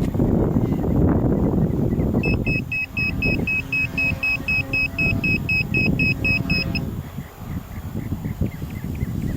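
Strong wind buffeting the microphone, with a rapid electronic beeping of about four beeps a second that starts about two seconds in and stops near seven seconds.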